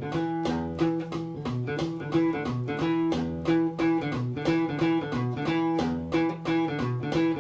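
Guitar playing a fast riff built on the low E string at about 180 beats a minute, picked notes in a steady repeating pattern.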